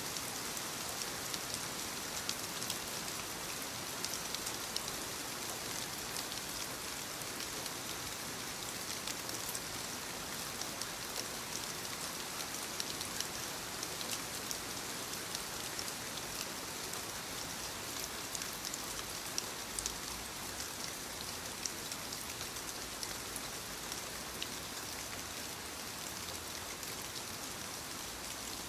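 Steady rain falling, with a constant hiss and many small drops pattering on a surface.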